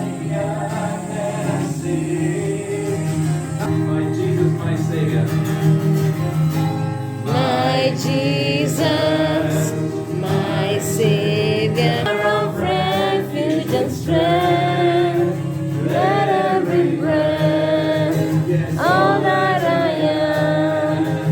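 Gospel song: singing voices over steady sustained instrumental backing, with a lead voice carrying the melody from about seven seconds in.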